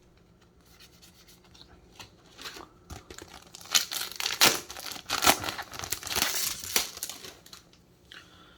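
Trading-card booster pack wrapper being torn open and crinkled, a run of sharp rustles that builds up a few seconds in after a quiet start and dies away near the end.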